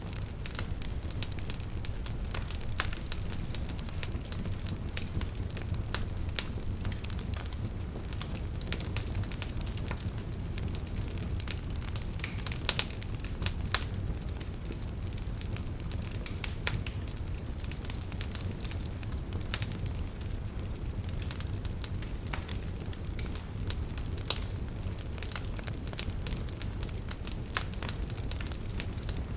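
Wood fire burning steadily, with a low rumble of flames and frequent irregular crackles and pops from the burning logs.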